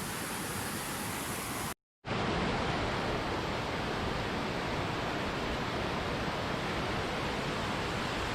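Steady rush of water from a waterfall. It cuts out to silence for a moment about two seconds in, then resumes a little louder.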